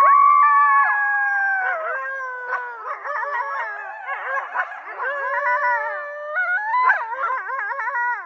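A group of coyotes howling together: long held howls that break up into a chorus of quick wavering yips and yodels, with fresh rising howls near the end before the calls cut off.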